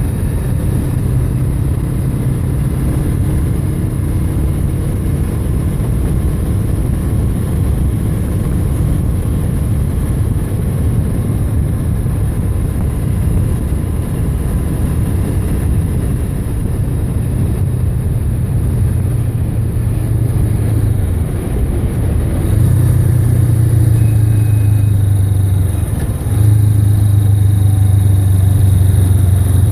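Motorcycle engine running steadily at road speed, getting louder about two-thirds of the way through and again a few seconds later as it picks up speed.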